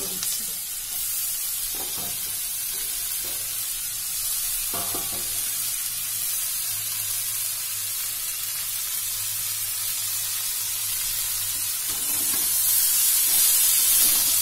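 Chicken, sliced onion and tomato sizzling in oil in a nonstick wok while a spatula stirs them, at the kosha stage of stir-frying on medium flame. The sizzle is steady and grows louder about twelve seconds in as the pan is stirred harder.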